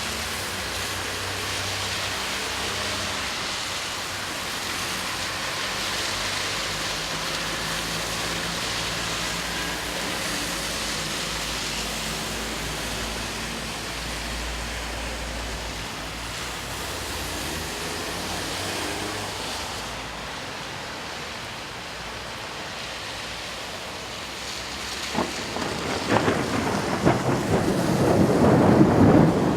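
Steady rain hiss, then a sharp thunder crack about twenty-five seconds in, followed by deep rumbling thunder that grows louder toward the end.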